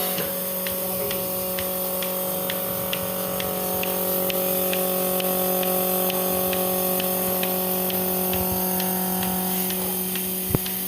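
Milking machine running: the steady hum of its motor-driven vacuum pump, with the pulsator clicking evenly about twice a second. There is a single sharper click near the end.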